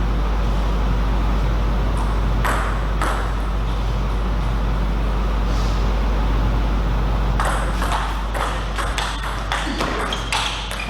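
Table tennis rally: the plastic ball clicking off rackets and table, a couple of hits about two and a half seconds in, then a quick run of hits from about seven and a half seconds to the end, over a steady low hum.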